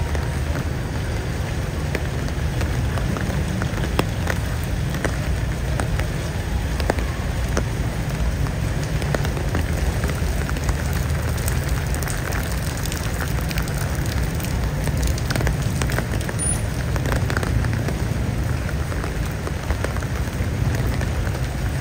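Steady rain falling, with many sharp individual drop ticks over a constant hiss and a low rumble underneath.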